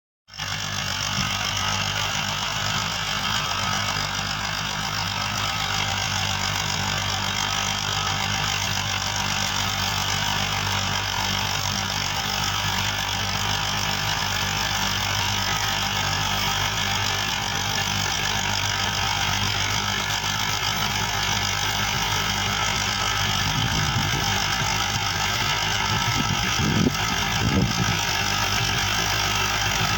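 Massey Ferguson 265 tractor's three-cylinder diesel engine running steadily, with a couple of brief louder knocks near the end.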